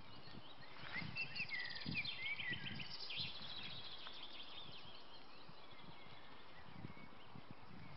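Small songbirds chirping and trilling over quiet outdoor background noise, busiest in the first half and fading after about three and a half seconds.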